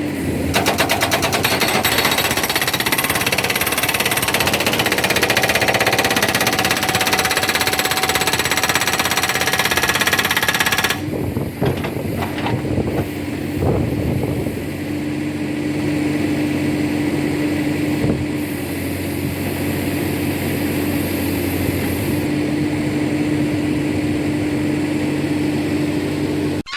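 Backhoe-mounted hydraulic rock breaker hammering in a rapid, steady stream of blows for about eleven seconds, then stopping abruptly. After that the backhoe's engine keeps running steadily, with a few knocks.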